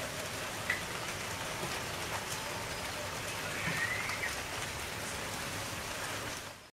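Steady rain falling, an even hiss with scattered drop ticks. A brief high chirp comes about four seconds in, and the sound fades out near the end.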